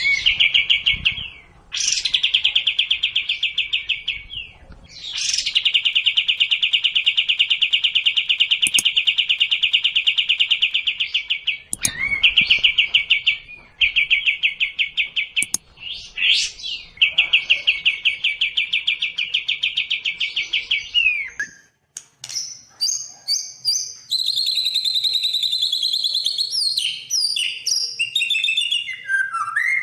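Songbird song for bird-song training: long, fast, buzzing trills at one pitch, each a few seconds long with short breaks. About 22 seconds in, these give way to a quick, varied song of short whistled notes that rise and fall.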